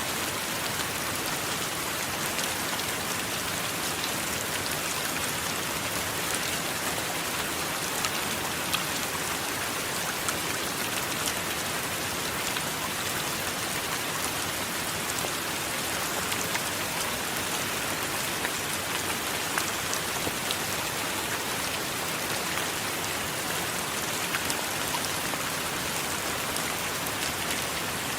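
Steady heavy rain falling on a surface, an even hiss dotted with the ticks of individual drops.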